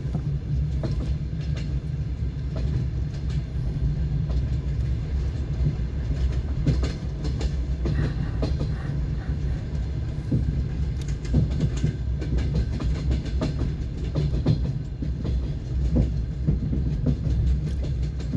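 Passenger train carriage running: a steady low rumble with the wheels clattering over rail joints in irregular knocks and clicks, heard from inside the carriage.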